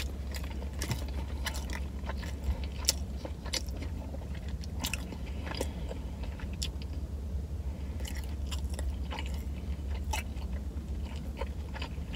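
A person chewing a mouthful of Philly cheesesteak sandwich close to the microphone: irregular wet clicks and smacks over a steady low hum.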